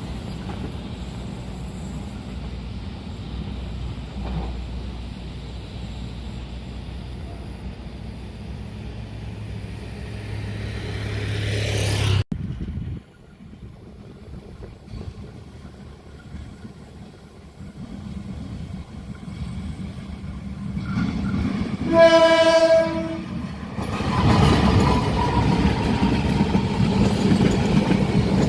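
A passing train rumbles steadily and then cuts off suddenly about twelve seconds in. After a quieter stretch, a train horn gives one blast of about a second and a half near the end, followed by the louder, steady drone of an approaching locomotive.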